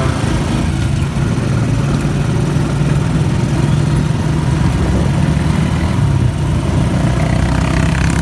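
Motorcycle engine of a tricycle running steadily, with no change in pitch or level through the stretch.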